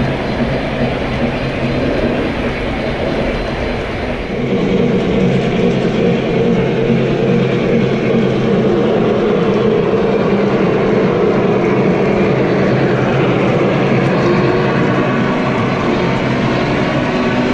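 Model train running on a layout: a steady motor hum and rolling noise that grows louder about four and a half seconds in.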